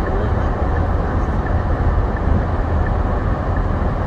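Steady rumble and hiss of a car driving through a blizzard: engine, tyre and wind noise with no clear changes.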